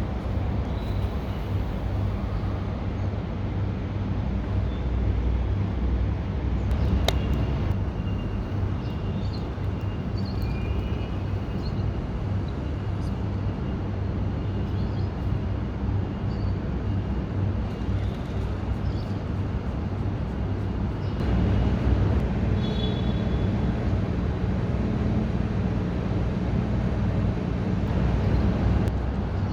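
Steady low rumble of road traffic, with a few faint, brief high chirps now and then.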